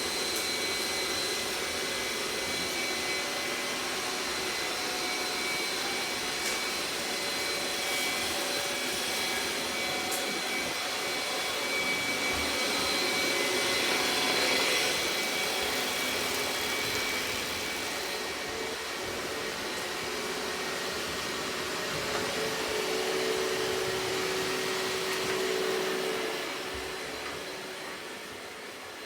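Robot vacuum cleaner running, a steady whirring of its suction fan and brushes with faint shifting tones, growing quieter near the end.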